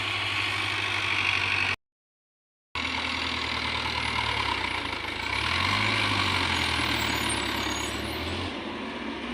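A vehicle engine running steadily at idle, rising somewhat in pitch for a few seconds past the middle before settling again. The sound cuts out completely for about a second, about two seconds in.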